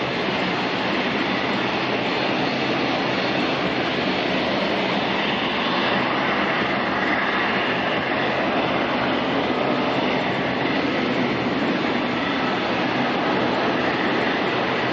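Boeing 787-9 airliner's jet engines running: a steady, even rush of noise with a faint steady whine.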